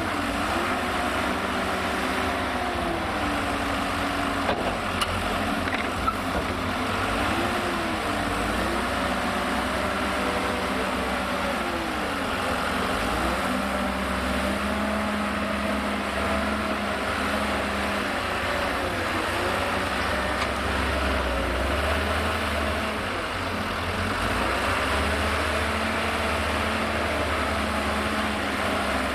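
Liebherr L534 wheel loader's diesel engine working, its pitch rising and falling again and again as the machine moves and works its bucket. A second, steadier engine note joins about halfway, and there are a few light knocks near the start.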